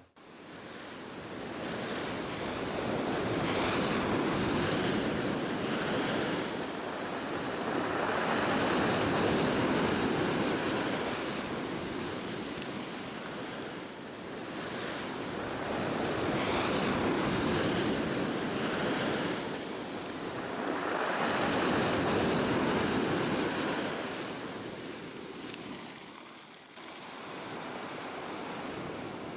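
Sea waves washing in and drawing back, swelling and fading every five seconds or so, with a short break near the end.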